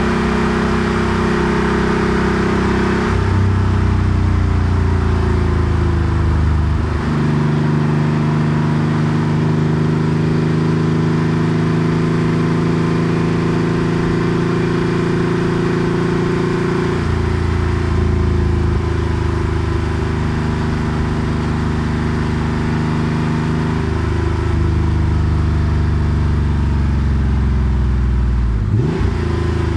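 Porsche 964 Carrera 2's air-cooled 3.6-litre flat-six, fitted with a center straight muffler, running under way. The engine note holds steady in stretches, shifts pitch several times as speed and throttle change, and gives a quick rev near the end.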